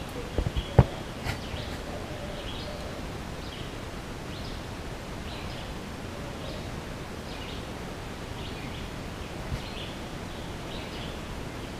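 Steady woodland ambience with a bird's short high chirp repeating about once a second. A few sharp knocks sound in the first second.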